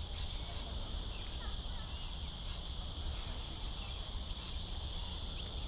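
Steady chorus of insects chirring, with a low rumble underneath and a few faint bird chirps.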